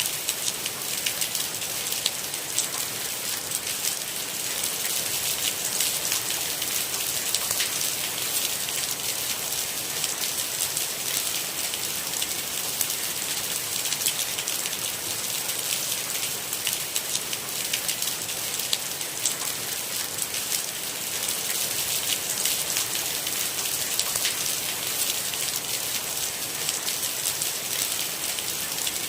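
Steady rain falling, a dense patter of individual drops over an even hiss, with no thunder.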